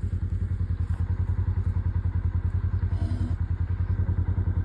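Polaris Ranger side-by-side engine idling with a steady low, even chugging.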